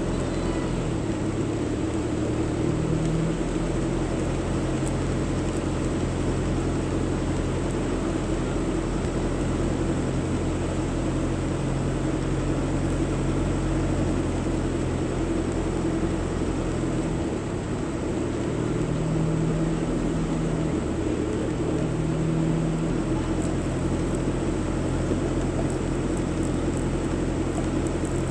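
Car engine and road noise from inside a moving car, a steady hum with a few brief rises in engine pitch.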